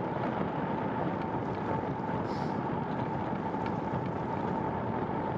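Steady rushing noise of a bicycle being ridden on a wet trail: wind on the microphone mixed with riding noise, with a faint steady hum running through it.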